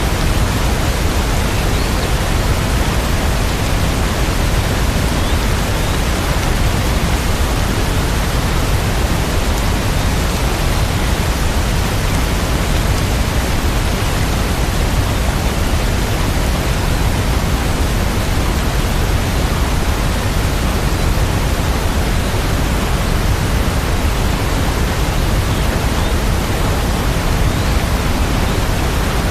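Steady rain: an even, unbroken hiss of rainfall, heavier in the low end.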